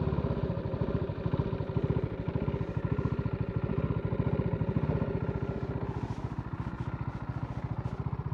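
TVS Apache RTR 310's single-cylinder engine and exhaust running at low, steady revs, with an even, rapid thudding pulse.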